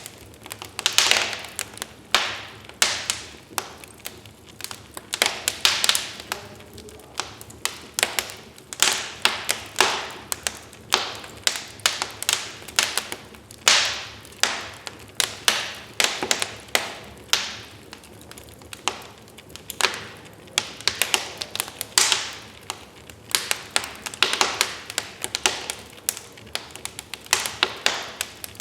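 Wood fire crackling in a fireplace: irregular sharp pops and snaps, several a second, over a faint steady hiss of flame.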